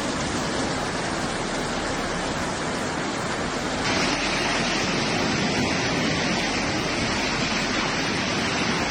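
Rushing floodwater, a steady loud roar of torrents, with an abrupt change in its character about four seconds in.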